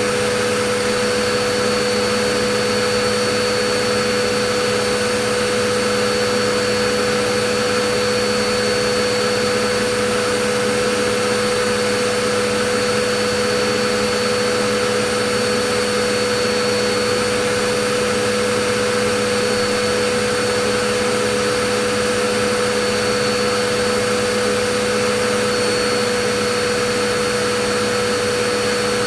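Vacuum cleaner running steadily and without change: a continuous rush of air with a low hum and a high, even tone over it.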